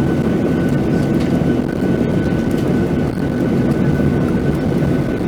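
Cabin noise of a Boeing 737-800 jet airliner, heard from a passenger window seat: its CFM56 engines and airflow give a steady rumble with a thin, constant whine over it, neither rising nor falling.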